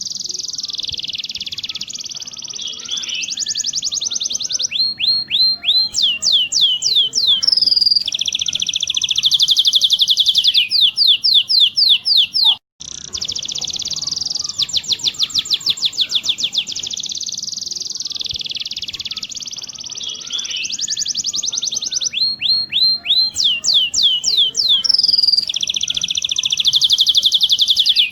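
Domestic canary singing a long, continuous song of fast rolling trills and rapid repeated rising sweeps. Near the middle the song cuts out for an instant and the same passage starts over, because the recording loops.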